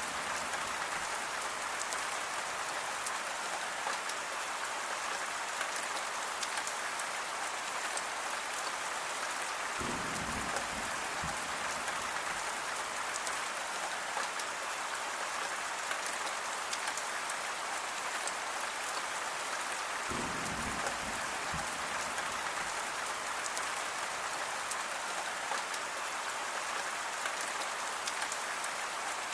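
Steady rain falling on a surface, an even hiss with scattered drop patter. A brief low rumble comes twice, about ten seconds apart.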